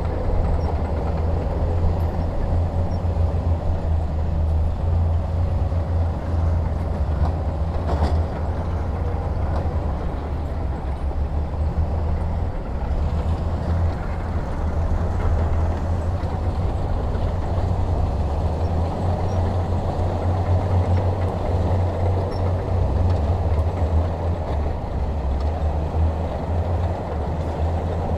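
Heavy diesel engine of earthmoving equipment running steadily, with a strong low rumble and one faint click about eight seconds in.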